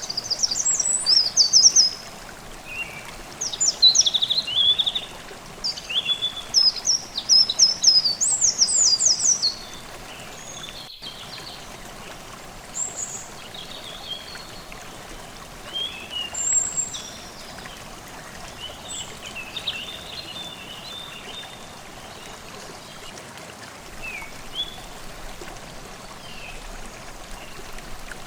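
Forest stream babbling steadily under birdsong: a bout of loud, quick, high song phrases in the first ten seconds, then scattered quieter calls.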